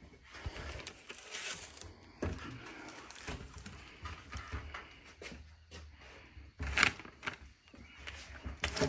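Scattered knocks and clicks of wooden boards being shifted and bumped together during a tabletop glue-up, with two sharper knocks near the end.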